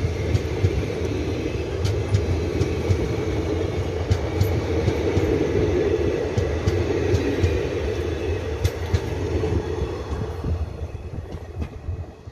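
Passenger train coaches passing close by at speed: a steady rumble of wheels on rail with frequent sharp clicks. The sound fades near the end as the last coach goes by.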